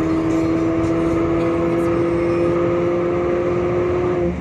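Car engine and exhaust pulling steadily through one gear, the drone rising slowly in pitch as the revs climb, then breaking off abruptly near the end as the gearbox shifts.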